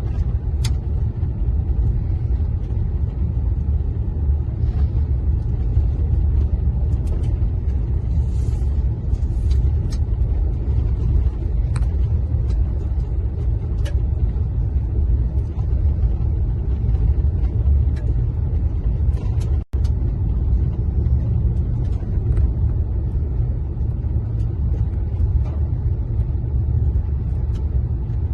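Car driving on a gravel road, a steady low tyre-and-road rumble with scattered light ticks of gravel. The sound cuts out for an instant about two-thirds of the way through.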